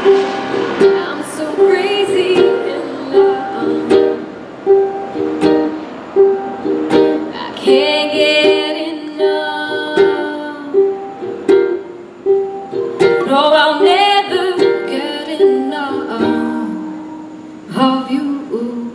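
Ukulele playing an instrumental passage of the song: a steady repeated plucked note with melodic runs over it.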